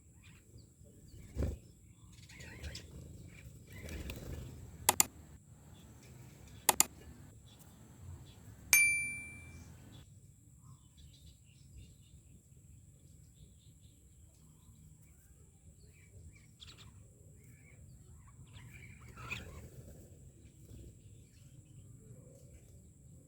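Two pairs of sharp clicks, then a single loud metallic ding that rings out for about a second, with a soft thump before them and faint bird chirps in between.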